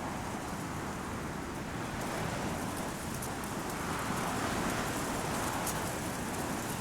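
Strong wind blowing through Teide broom (retama) bushes, their stiff branches and leaves rustling and clicking, with the wind swelling about four to five seconds in.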